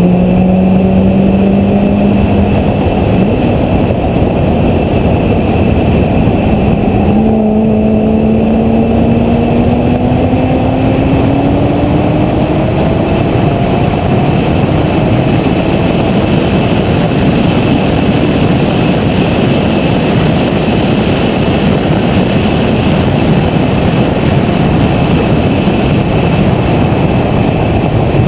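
Corvette ZR1's supercharged V8 pulling hard out of a corner, its pitch climbing, with a short break about seven seconds in before it climbs again. After that a loud, steady rush of wind and road noise covers the engine.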